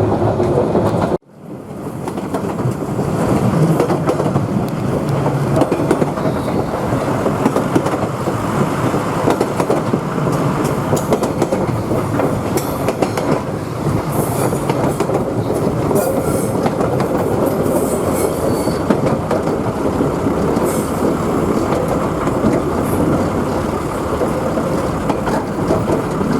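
2000 class diesel rail motor running along the track, with a steady rumble of wheels on rail. The sound drops out abruptly about a second in, then fades back up.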